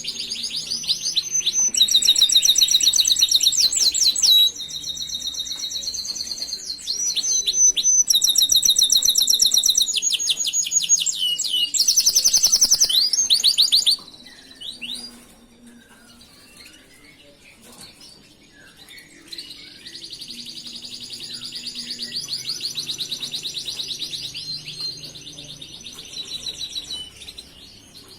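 Canary singing: long runs of rapid repeated trill notes that switch from one phrase to the next. The song breaks off about fourteen seconds in and picks up again with more trilling a few seconds later.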